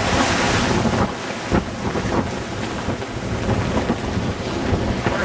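Wind buffeting the microphone over the rush of waves and water around a sailboat under way in choppy water.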